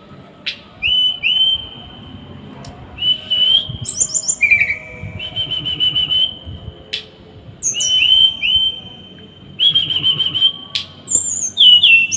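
Small songbird singing in short, rapid, harsh high-pitched trills, repeated phrase after phrase, with a few sharp clicks between some of them: the dense 'tembakan' song used to tutor caged songbirds.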